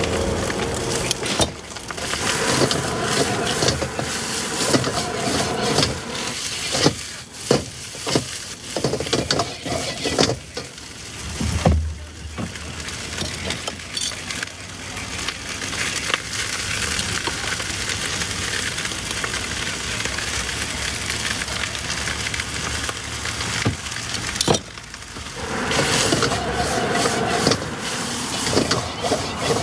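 Instant noodles stir-frying in a hot wok: a steady sizzle, with the metal spatula scraping and clacking against the pan, the clacks bunched in the first half.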